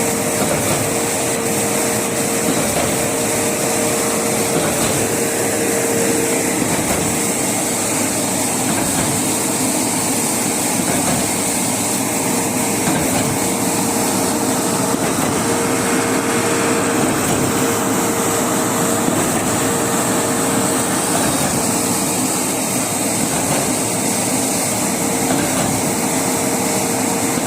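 Construction machinery running steadily: an even mechanical noise with a constant whine that dips briefly every second or two.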